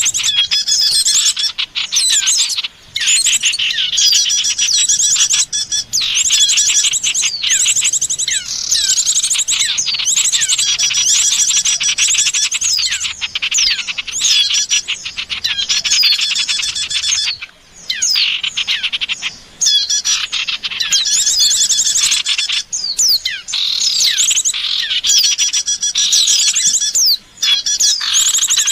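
Small songbirds chirping and twittering in a dense, rapid, high-pitched chatter, broken by a few brief pauses. It is a bird-lure call recording of the kind played to attract wild birds.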